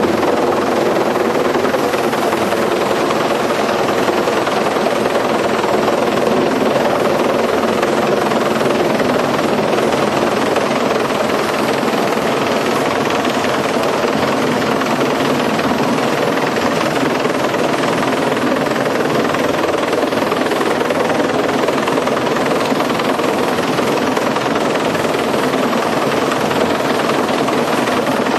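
Helicopter engine and rotor noise, loud and steady throughout, with no change in pitch or level.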